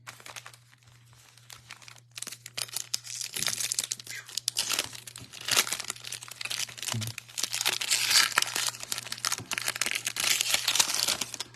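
Foil wrapper of a Bowman baseball card pack being torn open and crinkled, a dense crackling that starts about two seconds in, with a low steady hum underneath.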